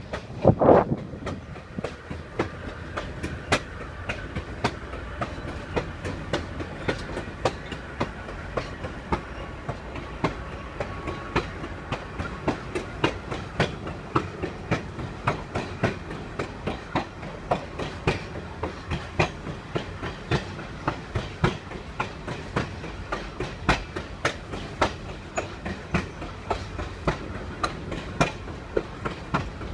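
A passenger train rolling along, heard from on board: a steady rumble with its wheels clicking over the rail joints in a regular clickety-clack. There is one loud thump about a second in.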